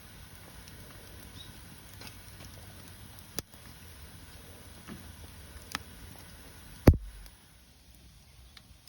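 Bonfire of burning wood giving occasional sharp pops and cracks a second or two apart, with the loudest, a heavy crack with a low thump, just before seven seconds in.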